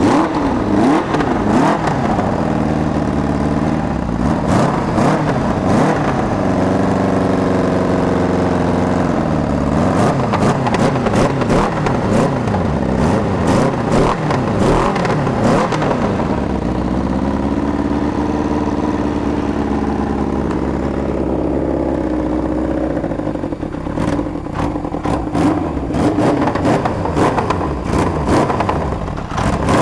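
Kawasaki 750 engine in a 2002 Polaris ATV, revving up and down over and over, twice settling at a steady speed for a couple of seconds.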